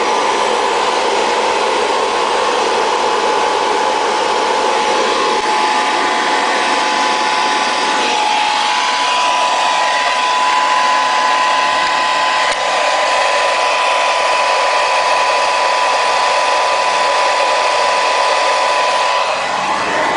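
Hoover Model 61 upright vacuum cleaner running steadily: an even rushing noise with a constant motor whine, whose pitch steps up slightly about eight seconds in.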